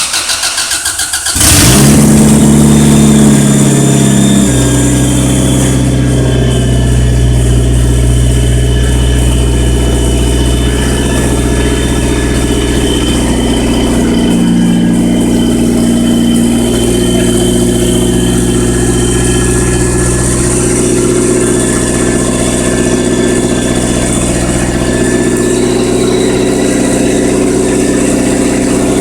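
Turbocharged Honda B16A 1.6-litre DOHC four-cylinder engine on its first start: the starter cranks it for about a second and a half, it catches with a brief flare of revs, then settles into a steady idle.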